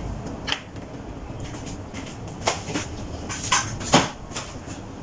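Kitchen dishes and utensils being handled: a few separate light knocks and clicks, about four over several seconds.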